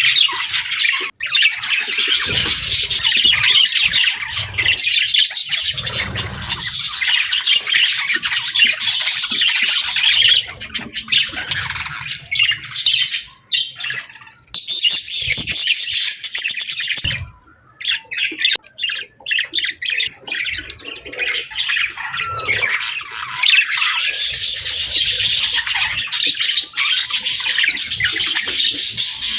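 Budgerigars (budgies) warbling and chirping in a continuous chatter, with harsher squawks mixed in and a few short pauses partway through.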